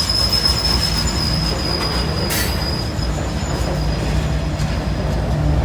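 Norfolk Southern freight train's cars rolling past with a steady low rumble and a thin, high wheel squeal that fades out about three seconds in.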